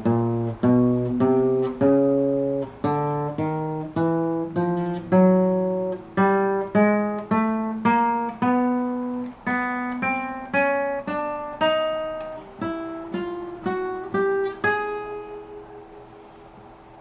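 Acoustic guitar (violão) playing single plucked notes one after another, about two a second. The notes climb overall from the low strings toward the high ones as the frets of the neck are sounded in turn. The last note, near the end, is left to ring and fade.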